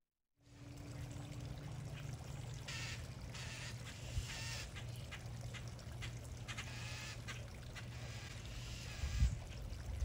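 Birds calling: a series of short, repeated calls over a steady low hum, with a low thump near the end.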